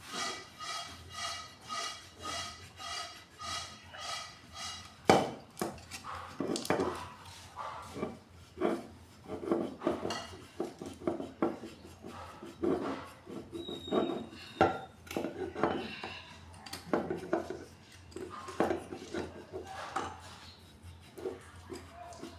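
Knife scraping and clinking on the metal parts of an electric water pump, as an old gasket is scraped off. It begins as a quick, even run of scraping strokes, then turns to irregular scrapes and knocks.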